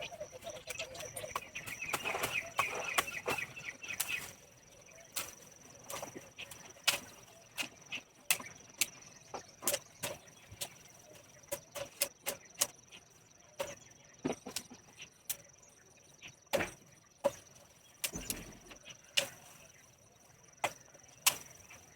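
Oleander branches being cut back by hand: sharp, irregular snips and snaps, about one or two a second, over a steady high insect trill.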